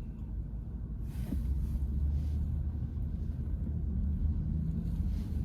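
Low road and tyre rumble inside the cabin of a moving VW ID.4 electric car, slowly growing louder.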